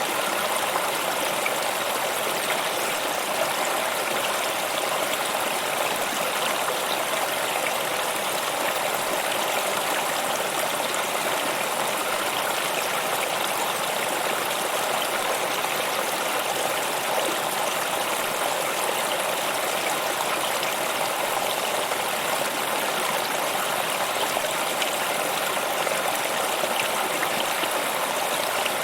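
Steady rushing and splashing of a flowing stream, even and unbroken throughout.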